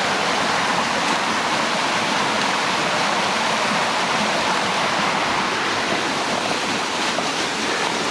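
Waterfall rushing: a steady, loud roar of falling water heard from close by at the top of the fall.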